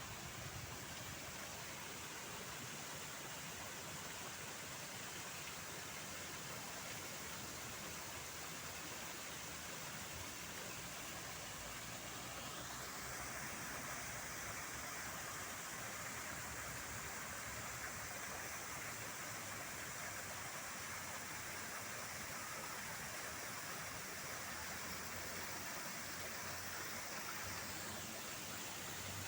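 Steady outdoor background hiss. A higher, even hiss comes in about halfway through and drops away shortly before the end.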